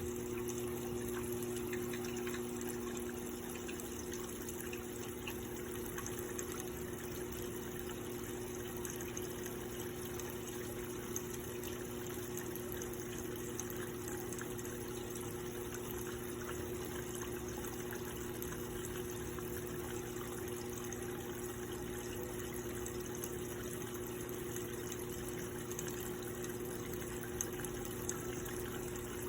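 Electrolux LPE16 top-loading washing machine filling with water: a steady rush of water pouring into the tub over a steady low hum of the machine's inlet valve.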